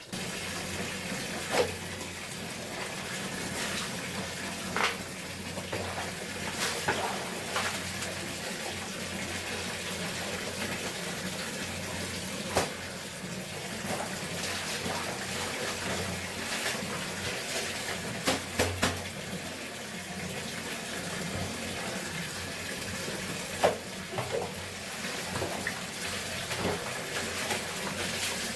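Water running steadily from a tap into a container, with a few sharp knocks now and then, including a quick cluster of them about two-thirds of the way through.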